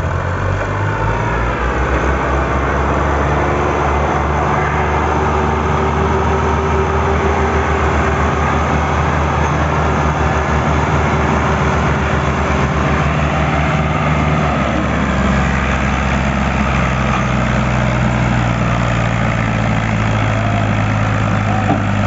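Tractor engine running with a steady, even low chug that changes to a higher, smoother note about 15 seconds in.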